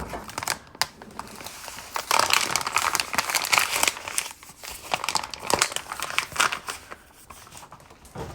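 Microwave popcorn packaging being crinkled and torn open, in rustling bursts with a few sharp clicks.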